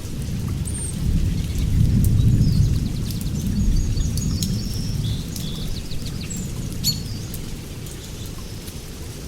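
Low rolling thunder rumbles, swelling about two seconds in and then slowly fading away. Over it, songbirds chirp and whistle, with scattered drips of rain.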